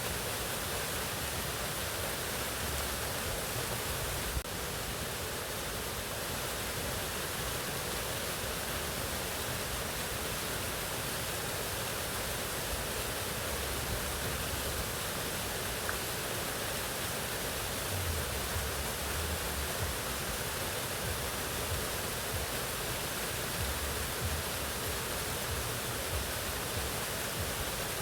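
Mountain waterfall: a steady, even rush of falling water, with a brief click about four seconds in.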